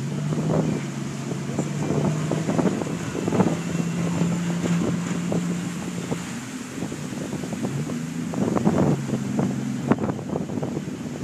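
Boat engine running with a steady low hum whose pitch steps up and down a few times, while gusts of wind buffet the microphone.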